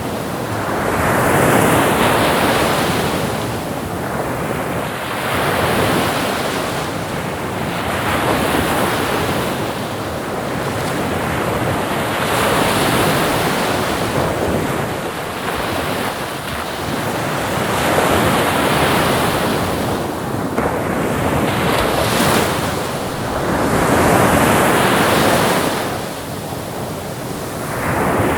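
Ocean waves breaking and washing up the shore in a continuous surf, swelling and falling back every few seconds.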